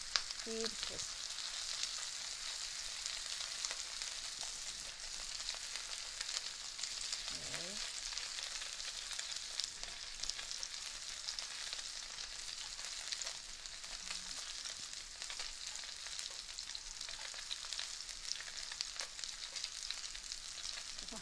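Cornstarch-coated prawns shallow-frying in oil in a wok: a steady sizzle and hiss with small crackles and pops throughout.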